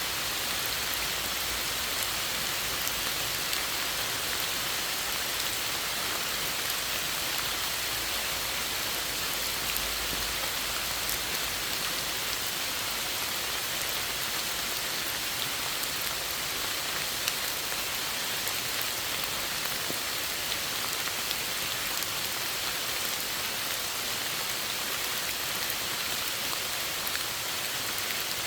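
Steady rain falling: an even hiss peppered with countless small drop taps.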